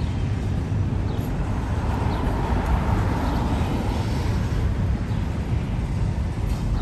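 Double-stack intermodal freight cars rolling past: a steady low rumble of steel wheels on the rails.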